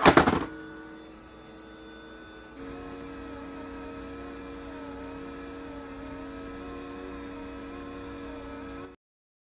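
Budget robot vacuum cleaner's motor running with a steady whirring hum, after a brief loud clatter at the start; it steps up louder about two and a half seconds in and cuts off abruptly near the end.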